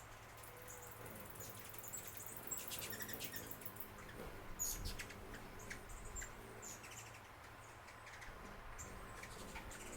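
Small birds chirping: short, high chirps scattered throughout, with a quick rapid trill about two to four seconds in, over a faint steady low hum.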